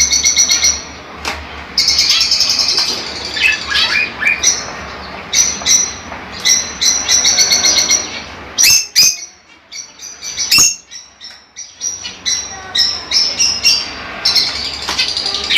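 Budgerigars chirping and chattering in quick, busy runs of short high notes, with two sharp clicks about halfway through.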